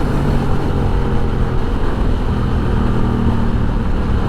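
Honda Rebel 1100's parallel-twin engine running at a steady pitch at around 100 mph. Heavy wind rush on the rider's chest-mounted microphone.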